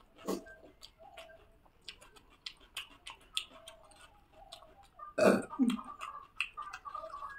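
Close-up eating sounds of rice and chicken curry eaten by hand: chewing with frequent small mouth clicks and lip smacks. A short low throat sound comes just after the start, and a louder one about five seconds in.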